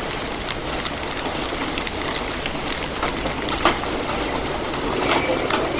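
Heavy rain falling steadily, with scattered sharp drops and ticks standing out from the even hiss of the downpour.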